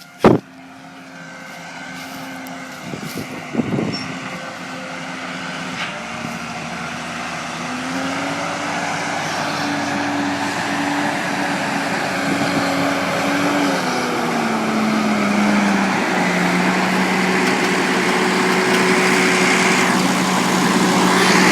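Caterpillar Challenger 55 rubber-track tractor's diesel engine running under load while pulling a disc harrow, with a rushing noise growing steadily louder as it approaches. The engine note rises about eight seconds in and drops again a little past the middle. A single sharp click comes right at the start.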